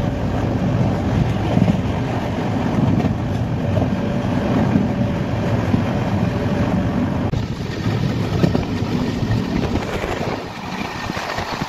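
Passenger train running at speed, heard from inside the coach: a steady rumbling noise of the moving train, easing slightly near the end.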